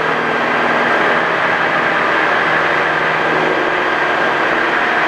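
Cessna 172's piston engine and propeller running steadily at full takeoff power in the climb just after liftoff, heard inside the cabin.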